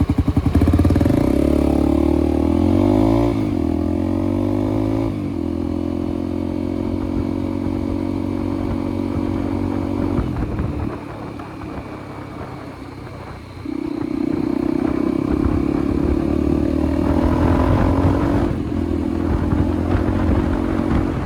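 Motorcycle engine under way, revving up and shifting through gears in the first few seconds and then running steadily. About halfway through it eases off and goes quieter for a few seconds, then pulls again, with another shift near the end.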